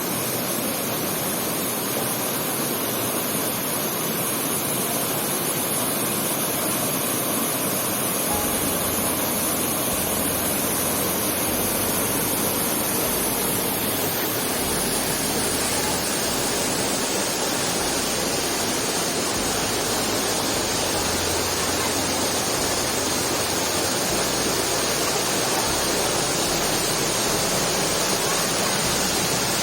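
Small waterfall's water rushing and splashing in a steady, unbroken noise, its flow reduced after a few days without rain.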